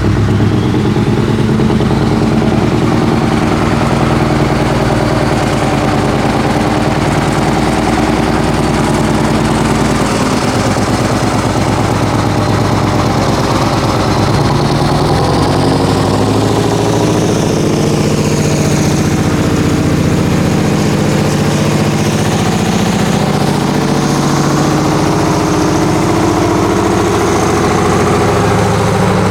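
Scania 164L 480's V8 diesel running loud and steady near idle, with the deep chattering exhaust of the older Scania V8s. A faint high whine falls in pitch about two-thirds of the way through.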